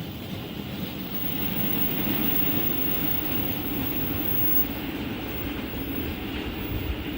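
A train running past, a steady rumble that grows a little louder about two seconds in.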